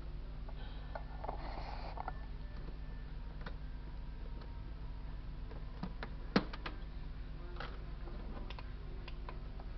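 Scattered small clicks and knocks of parts and tools being handled while a Dexp thermopot is taken apart, the sharpest about six seconds in, with a brief rustle near the start, over a steady low hum.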